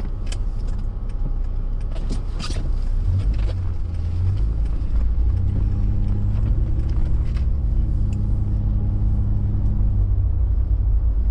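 A car driving on snowy roads: a steady low engine and tyre rumble that grows louder about four seconds in, with a few sharp clicks in the first few seconds.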